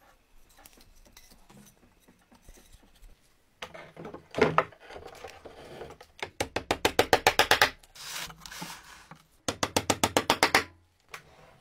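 Rapid back-and-forth rubbing on wood, like hand sanding or rasping, in bursts of about eight to ten strokes a second, broken by short pauses. It starts a few seconds in, after a quiet stretch.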